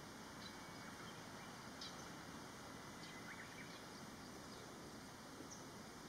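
Quiet outdoor ambience: a steady low hiss with a few faint, short bird chirps scattered through it.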